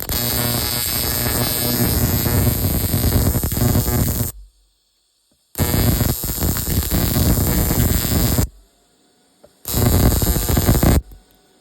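Electric welding arc crackling and buzzing in three bursts of a few seconds each, stopping and restarting, as the welder tries to lay a bead on a snowmobile part of unknown metal that will not fuse.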